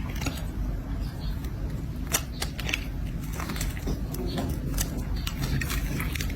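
Bar of soap being scraped with a blade: irregular crisp crackling ticks and crunches as flakes break off, over a steady low hiss.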